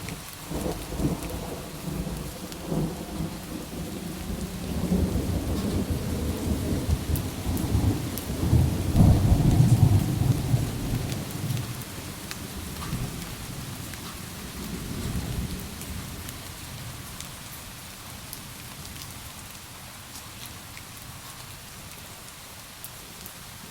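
Steady rain with a long roll of thunder. The rumble builds over the first few seconds, peaks about ten seconds in, and fades away over the next several seconds, leaving the rain alone.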